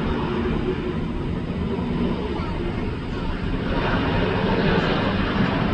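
Jet airliner engines rumbling at an airport, growing louder about two-thirds of the way in.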